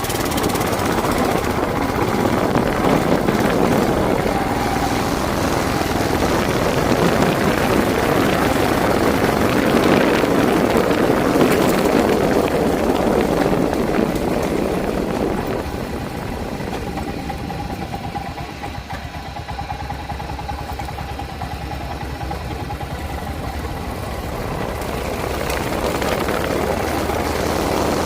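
A motor-vehicle engine running steadily. The sound drops in level about halfway through, after which a steady tone is heard above it.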